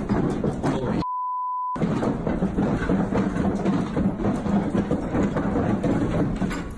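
A steady 1 kHz censor bleep, under a second long, about a second in, with all other sound cut out beneath it. Around it runs a loud, dense rumbling noise with no clear source.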